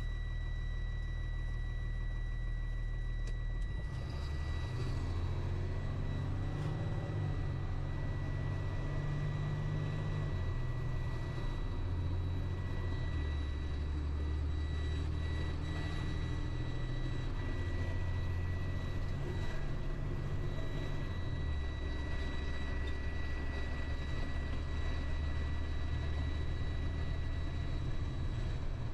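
Delivery truck's engine heard from the cab while driving, its low rumble stepping up and down in pitch several times as the speed changes. A faint steady high whine sits over it.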